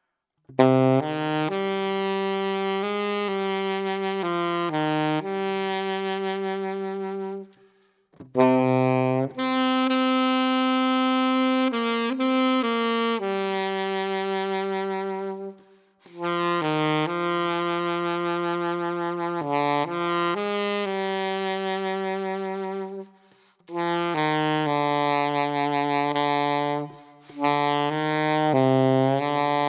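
Solo alto saxophone (Selmer Super Action 80 Serie II) playing a slow melody in four phrases, with short pauses for breath between them. Several phrases start on very low notes, including the low A below the horn's lowest B♭, which is played with the low B♭ fingering while the bell is half-covered.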